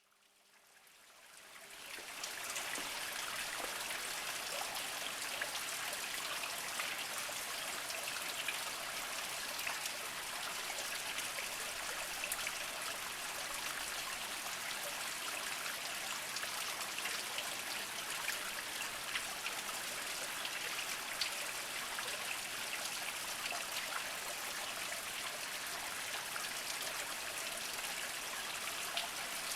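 Small mountain spring trickling over mossy rocks: a steady patter and splash of thin water, fading in over the first couple of seconds.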